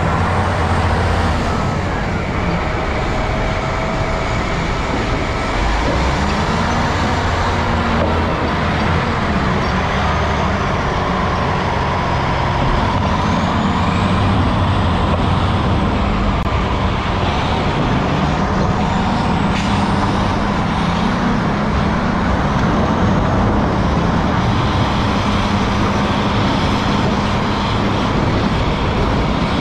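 Steady motor vehicle noise with a low, even hum.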